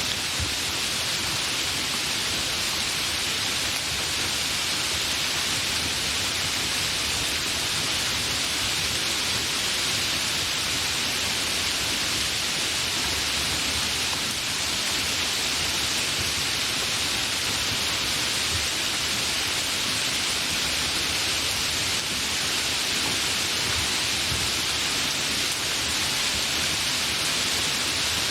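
Steady, fairly heavy rain falling, an even hiss that does not rise or fall.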